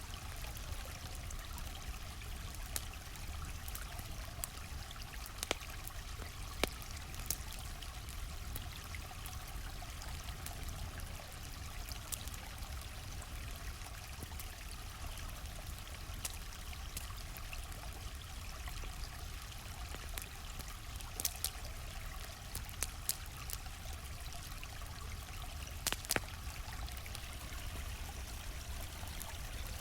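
Stream flowing steadily over rocks, with a campfire crackling on top of it: scattered sharp pops, a quick cluster a little past two-thirds of the way in and the loudest pops shortly after.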